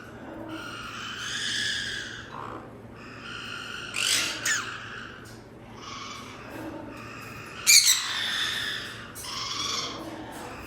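A parrot calling: a run of drawn-out calls about a second long each, broken by short, sharp, loud squawks about four seconds in, again just after, and near eight seconds in.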